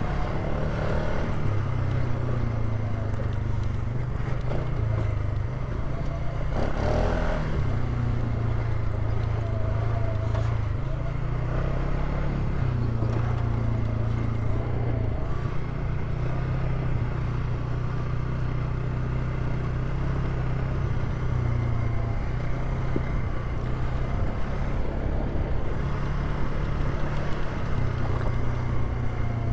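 Polaris ATV engine running while the quad rides along, its pitch stepping up and down every few seconds with the throttle.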